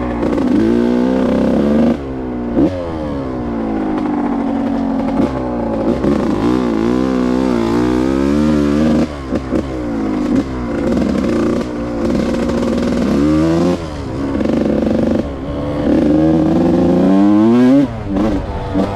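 Yamaha YZ125 single-cylinder two-stroke engine revving under way, its pitch climbing and falling repeatedly as the throttle is worked, with a few sudden dips in between.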